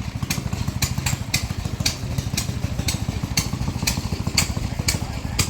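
Indian V-twin engine of an early Eliason snowmobile running at a steady idle, with a sharp clack about twice a second over the low, rapid firing pulse.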